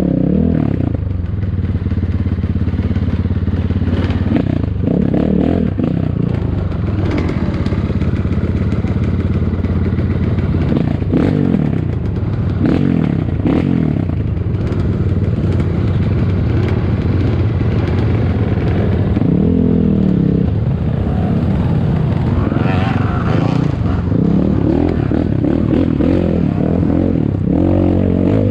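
Ataki DR 250 enduro motorcycle engine running under load off-road, its revs rising and falling again and again, with scattered knocks and clatter.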